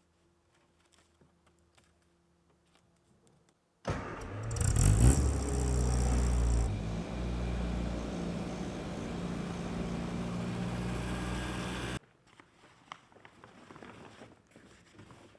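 An engine starts suddenly and revs up, its pitch rising for about a second. It then runs steadily and stops abruptly near the end.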